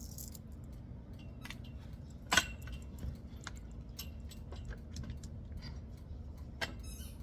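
Parts of a hammock stand being handled: scattered light clicks and clinks, with one louder, ringing clink about two and a half seconds in.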